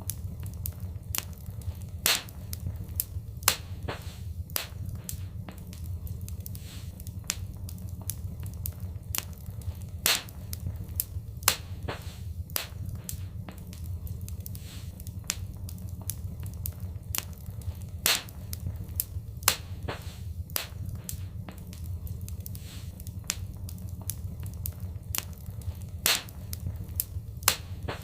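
Wood fire in a fireplace crackling, with many small sharp snaps and a louder pop every few seconds over a steady low rumble of the flames.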